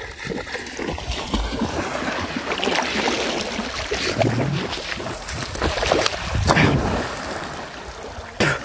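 Water rushing and splashing, with wind buffeting the microphone and a few brief snatches of voice.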